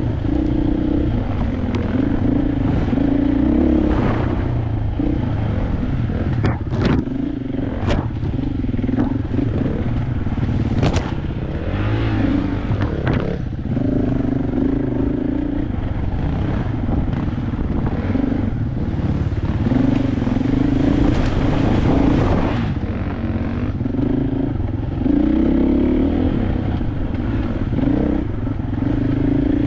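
KTM 500 dirt bike's single-cylinder four-stroke engine running while being ridden, its revs swelling and dropping again and again as the throttle opens and closes. A few sharp clattering knocks come from the bike around the middle.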